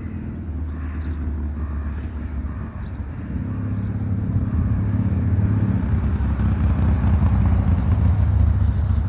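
Low, steady motor-vehicle rumble that grows louder about three seconds in.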